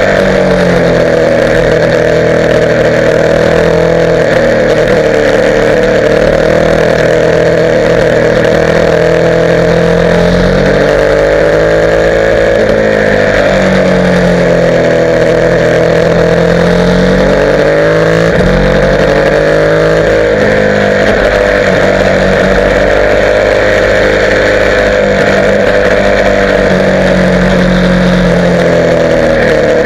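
Motorcycle engine running while riding, its pitch rising and falling several times with the throttle.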